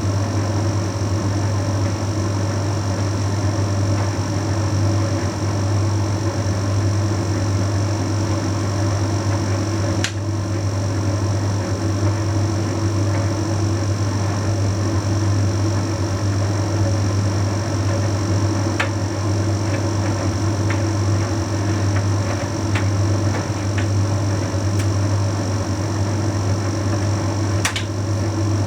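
Bosch Series 6 heat pump tumble dryer running mid-cycle: a steady low hum from the compressor and drum motor. A few sharp clicks come from the tumbling load.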